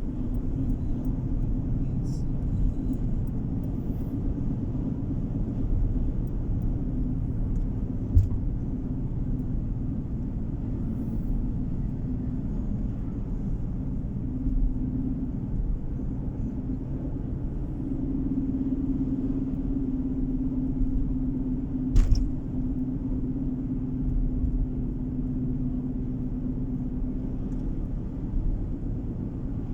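Car driving on a road, heard from inside the cabin: a steady low rumble of tyres and engine with a steady hum over it. Two sharp clicks, about eight seconds in and about twenty-two seconds in.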